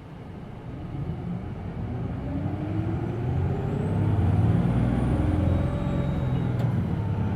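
Hino Blue Ribbon City Hybrid bus's diesel engine, heard from inside the cabin, revving up as the bus pulls away. It grows steadily louder and higher over the first few seconds, then runs hard.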